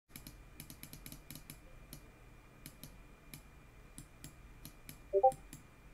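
Sparse light clicks at an irregular pace, like a computer mouse or keys being pressed. A little after five seconds there is a brief electronic blip of a few short notes.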